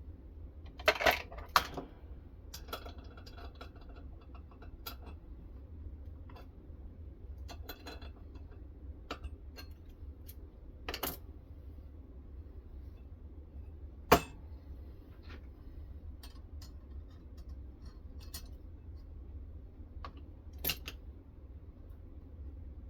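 Scattered metallic clicks and clinks as metal parts of a knife sharpening system are handled and set, a few sharper knocks among them, over a steady low hum.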